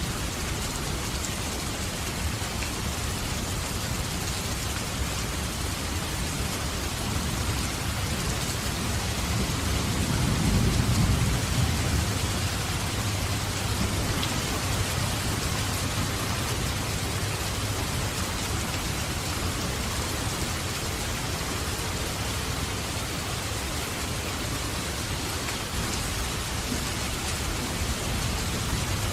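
Steady rain falling, with a low roll of thunder that swells and fades about ten seconds in.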